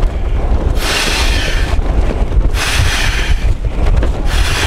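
An inflatable sleeping mat being filled by hand, with a rushing puff of air about every second and a half. Under it runs a constant low rumble of strong wind buffeting the tent and microphone.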